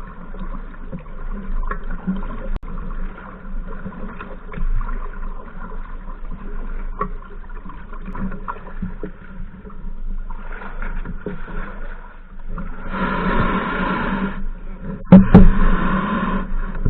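Kayak being paddled: water splashing and dripping from the paddle strokes, with small knocks against the hull. A louder rush of water comes about two-thirds of the way through, then a sharp, loud knock.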